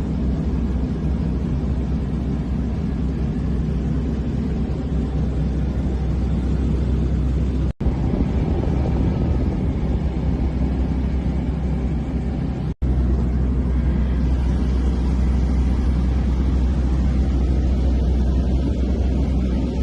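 Small airplane's piston engine and propeller droning steadily, heard from inside the cabin, broken twice by brief dropouts.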